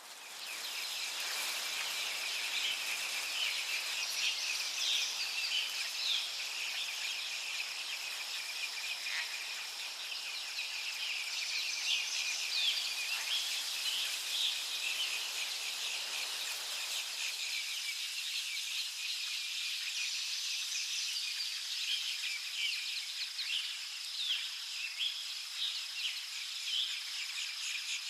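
Forest ambience: insects trilling in a steady high drone, with many short bird chirps over it. It fades in over the first second or so.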